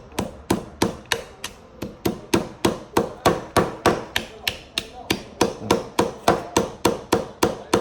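Hammer tapping a nail into wood in a quick, steady rhythm of about four light strikes a second.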